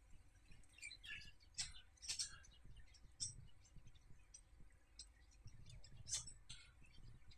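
Faint chirping of house sparrows: a few short, high chirps, several close together early on and another about six seconds in.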